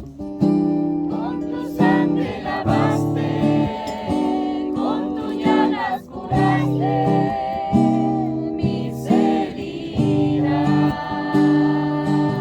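Acoustic guitar strummed in steady, repeated chords while voices sing along.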